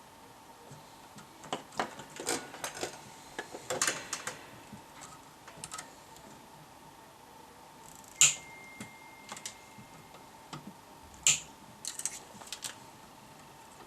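Irregular sharp clicks and taps, the loudest about 8, 11 and 12 seconds in, over a faint steady high tone.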